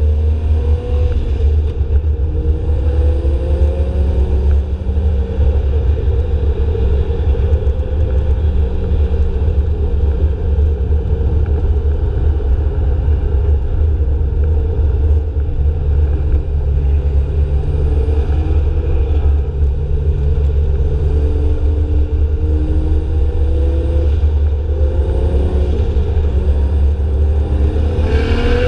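Drift car engines running and revving at a distance, their pitch rising and falling slowly, over a constant heavy low rumble. Near the end a rising rev sets in.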